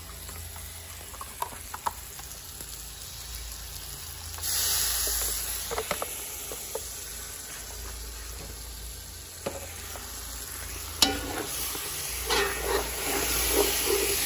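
Spiced onion-and-garlic masala paste sizzling and frying in a pot on a propane burner, with a spoon scraping through it as it is stirred. The sizzle starts suddenly about four seconds in and grows louder, with clicks and scrapes, a few seconds before the end.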